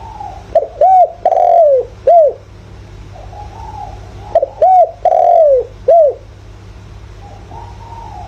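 Spotted dove cooing: two loud phrases about four seconds apart, each a few short rising-and-falling coos around one longer falling coo. Fainter cooing fills the gaps.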